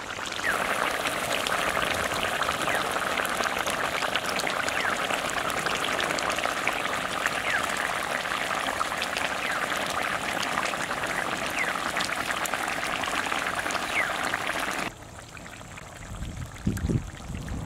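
Chicken masala sizzling in a pan: a steady hiss with many small crackling pops. It cuts off suddenly near the end, and a few low bumps follow.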